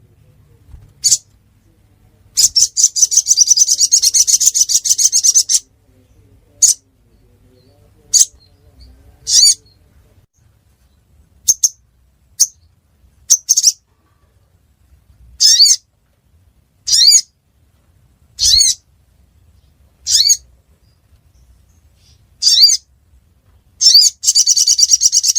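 Sogon bird (sogok ontong) calling: sharp high chirps, many sweeping downward, repeated every second or two, with a rapid trill lasting about three seconds near the start and again near the end.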